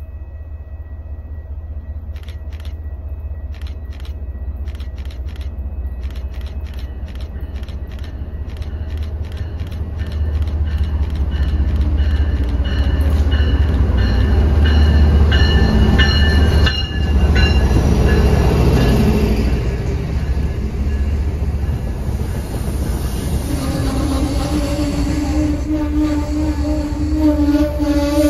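MBTA HSP-46 diesel locomotive leading a commuter train past: wheel clicks over the rail come closer and faster, and the diesel's low rumble builds to its loudest about halfway through as the locomotive goes by. The bilevel coaches then roll past, with a steady wheel or brake squeal from about three-quarters of the way through as the train slows for the station.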